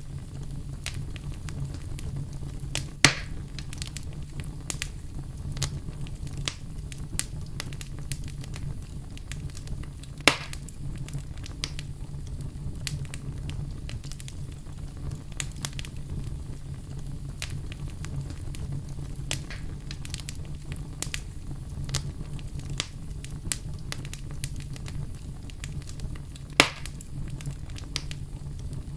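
Wood fire crackling, with frequent small snaps over a steady low rumble. Three loud pops stand out: about 3 seconds in, about 10 seconds in, and near the end.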